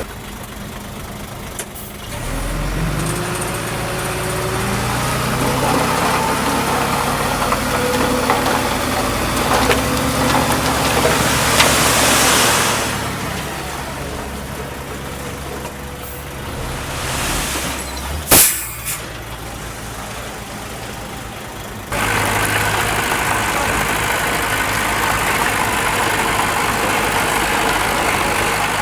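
Heavy diesel machinery engines running and revving, with a rush of noise partway through and one sharp loud bang about two-thirds of the way in; the sound changes suddenly to a steady engine running near the end.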